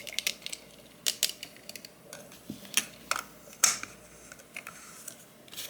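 Small hard miniature kitchen pieces clicking and tapping as they are handled: irregular sharp ticks, the loudest about three and a half seconds in.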